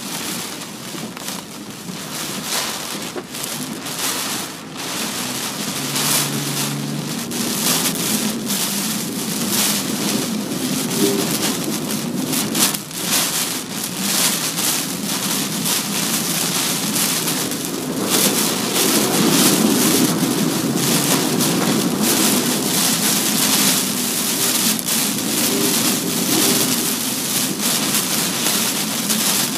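Heavy typhoon rain and wind beating on a moving car, a dense steady hiss with many sharp spatters, growing louder about two-thirds of the way in.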